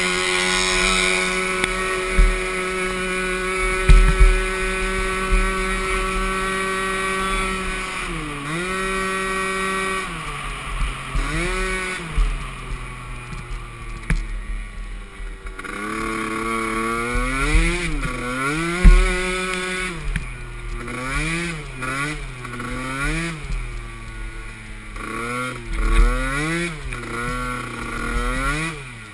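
Small youth ATV engine racing: held at a steady high pitch at full throttle for the first several seconds, then revving down and back up again and again as the throttle is chopped and reopened, the swings coming quicker near the end. A few low thumps are heard along the way.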